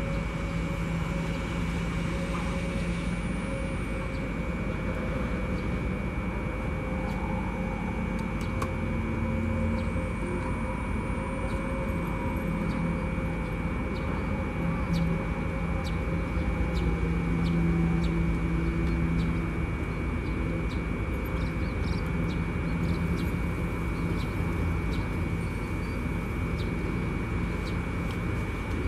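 KCIC400AF high-speed inspection train creeping slowly along the track: a steady low drone with a constant high-pitched whine above it.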